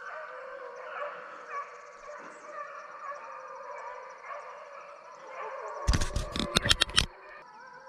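A pack of deer hounds baying and yelping on a running trail, several dogs calling over one another. About six seconds in, a loud burst of rough knocking noise covers them for about a second.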